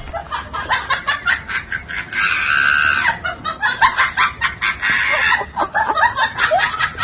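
Birds, likely fowl, making a rapid run of short calls, with one longer held call about two seconds in.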